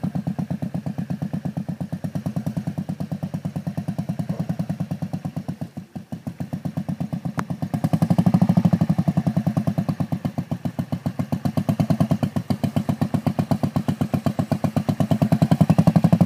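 Motorcycle engine running at low revs with an even pulse. It sags briefly about six seconds in, then picks up and runs louder from about eight seconds on.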